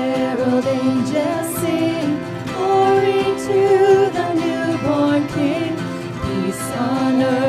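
A worship band performing a Christmas carol, with singing over the instruments.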